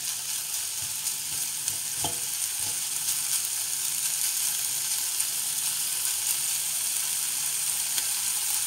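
Diced pancetta sizzling steadily in a non-stick frying pan as it toasts, stirred with a utensil; a single tap about two seconds in.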